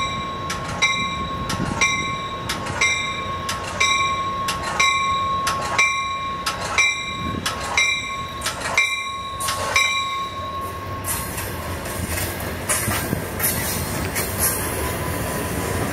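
Amtrak Cascades passenger train departing. Its bell rings about twice a second and stops about eleven seconds in, over the steady rumble of the cars rolling out. The leading cab car passes close near the end.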